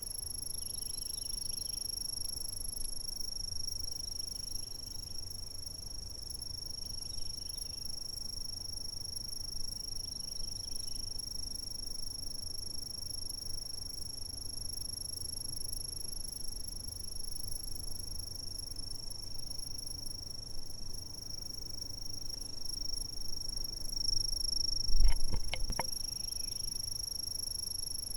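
Insects trilling in an unbroken, high-pitched chorus, with faint softer chirps now and then over a low rumble. Near the end a single short, loud knock.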